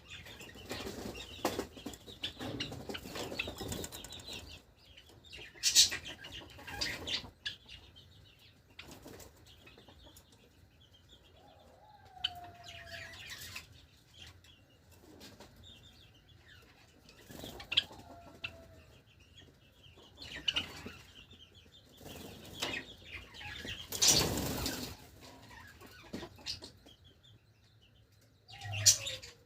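Pet Java sparrows flapping their wings in short bursts, with faint short chirps between the flutters.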